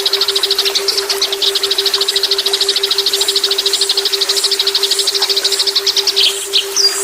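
A small songbird's rapid machine-gun trill, a 'tembakan' call of high, evenly spaced notes at more than ten a second, lasting about six seconds and giving way near the end to a few separate sharp notes. A steady, pulsing low electronic tone runs beneath it.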